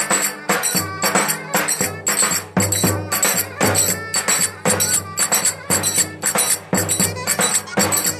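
Live Turkish folk dance music for köçek dancing: a fast, even beat of jingling percussion under a melody line.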